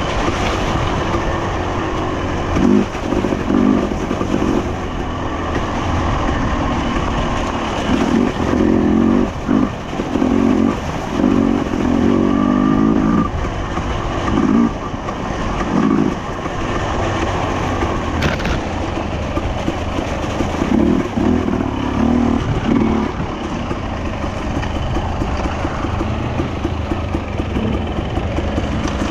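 Enduro motorcycle engine running under load, revving up and easing off again and again as the bike is ridden off-road. A single sharp click sounds about two-thirds of the way through.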